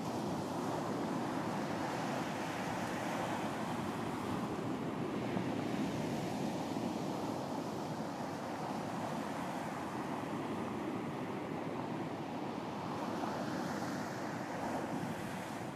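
Surf washing onto a beach, a steady rush of breaking waves that swells and eases slowly over several seconds.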